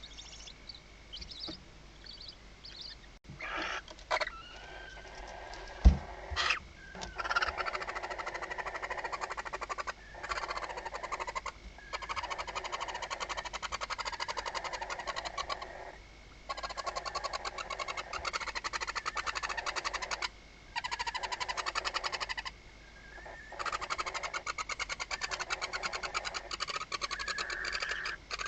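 Barn owl nestlings begging in the nest box with rapid pulsed hissing calls in runs of a few seconds, broken by short pauses. A single thump about six seconds in comes before the calling starts.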